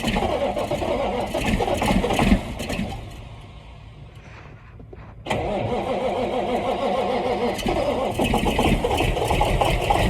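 Kenworth truck's diesel engine cold-starting in sub-zero cold with its block heater not plugged in. Loud for the first couple of seconds, it fades to a quieter gap, then about five seconds in it starts abruptly and keeps running steadily.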